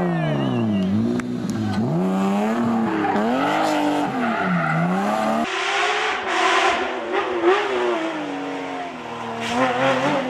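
Car engine revving up and down repeatedly, about once a second. Some five and a half seconds in it gives way to a steadier engine note under road and tyre noise.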